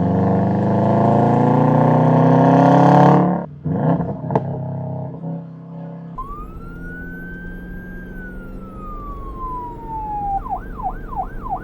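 Car engine accelerating hard, its pitch climbing for about three seconds before cutting off. About six seconds in, an electronic siren wails up and glides slowly down, then switches near the end to a rapid yelp.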